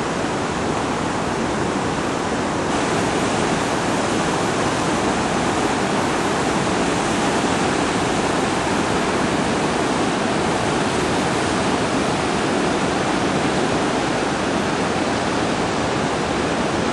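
Floodwater running fast down a desert wash in flood, a loud, steady rush of water that gets a little louder and brighter about three seconds in.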